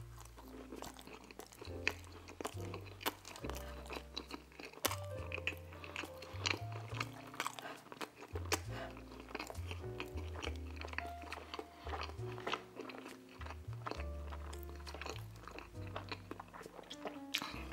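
Close-up chewing and mouth sounds of a person eating a soft, icing-covered mini Cinnabon cinnamon roll. Background music with a steady bass line plays underneath.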